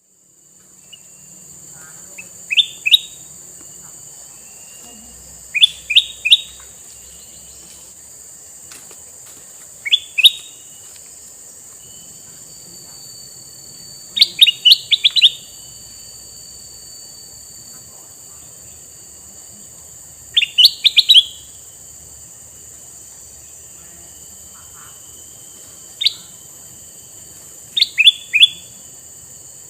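Male kutilang mas (a bulbul) calling in short bursts of two to five quick, high chirps, a burst every few seconds, over a steady high hiss.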